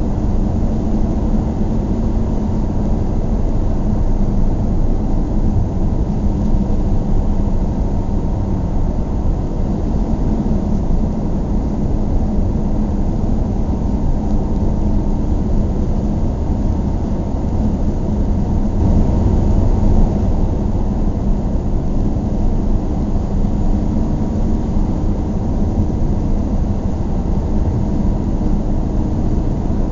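A car driving along at a steady pace: a continuous low rumble of engine and road noise with no sharp events, swelling slightly about two-thirds of the way through.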